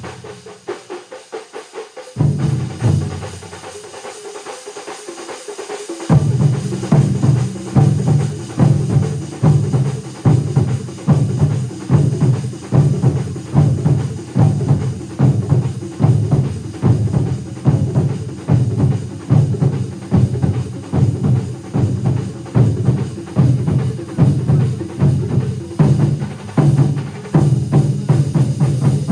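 A large ensemble of drummers playing a loud, driving rhythm of fast, evenly repeated strokes. After a thinner, quieter passage, the whole group comes back in together about six seconds in and keeps up a steady pulse.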